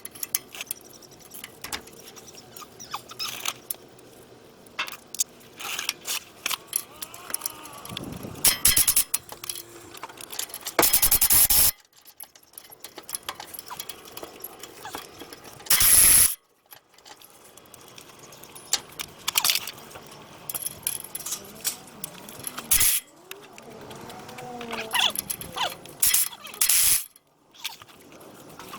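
Scattered metallic clinks, knocks and rattles of tools and parts during hands-on work on a car engine, with two short loud noisy bursts: about a second long a third of the way in, and a shorter one just past halfway. Faint squeaks come near the end.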